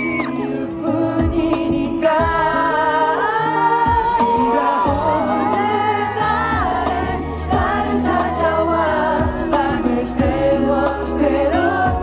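A K-pop ballad sung live by male vocalists over a backing track, with a held, wavering vocal line and a steady bass underneath.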